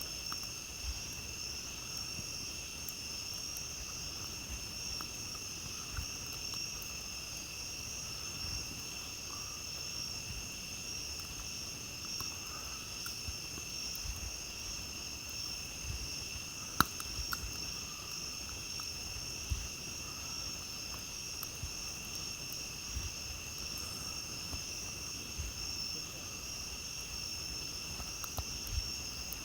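A steady chorus of night insects, crickets by their trilling, with a campfire crackling and popping in irregular snaps, one sharp loud pop a little past halfway.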